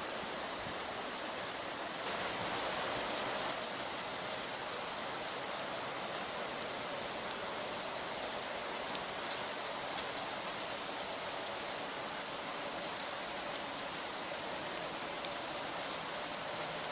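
Steady rain falling, an even hiss with scattered drops ticking, a little heavier about two seconds in.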